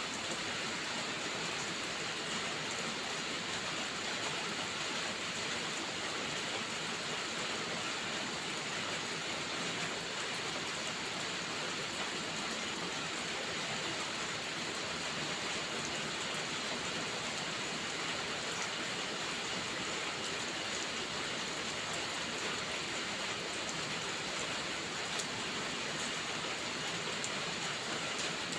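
Steady heavy rain, an even hiss that does not change, with a few faint clicks.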